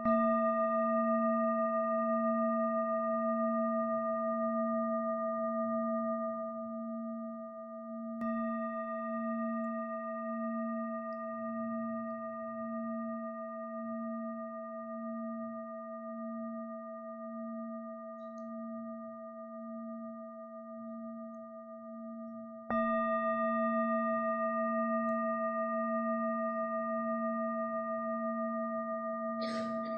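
A singing bowl ringing with a low, slowly pulsing hum and several higher overtones. It fades gently and is struck again about eight seconds in and once more a little past twenty seconds.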